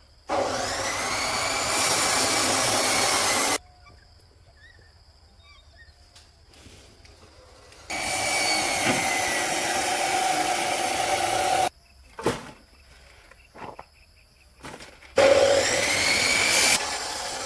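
A motorised power tool runs in three bursts of a few seconds each. Each burst starts with a brief rising whine as it spins up and cuts off sharply. A few short knocks come between the second and third bursts.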